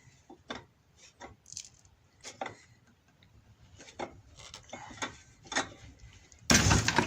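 Car jack being let down under a Renault Logan: scattered small clicks and knocks, then a loud burst of noise about six and a half seconds in.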